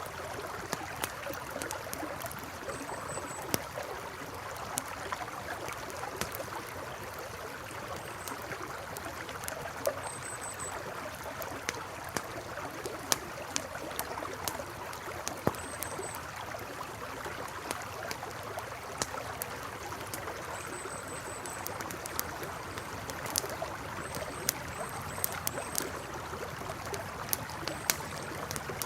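River water flowing steadily, with a wood campfire crackling in sharp pops scattered throughout. Brief high chirps recur every few seconds.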